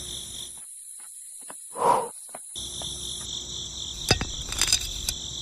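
Crickets trilling steadily in high, even bands. There is a short, muffled burst about two seconds in, and from about four seconds in a few sharp clicks as a small metal pin is pushed into a toy tractor's trailer hitch.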